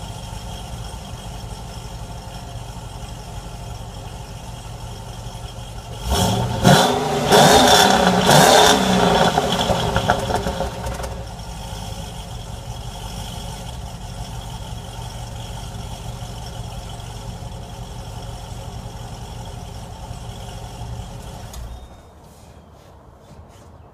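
Pontiac G8 GT's 6.0-litre V8 breathing through long-tube headers, an X-pipe and stock mufflers, idling, then revved hard several times about six seconds in before settling back to idle. The engine shuts off near the end.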